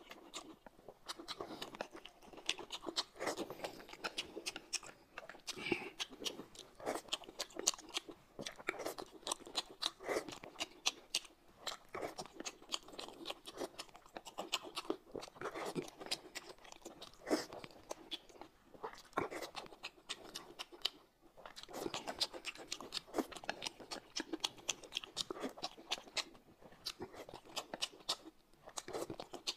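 Close-miked chewing of boiled dumplings: continuous wet, smacking mouth sounds with many small irregular clicks, as chopsticks pick more from the plate.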